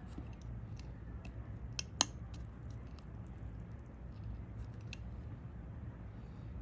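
Small tools clicking and tapping on a smartphone's parts during a repair, with scattered light clicks and two sharper clicks close together about two seconds in, over a steady low hum.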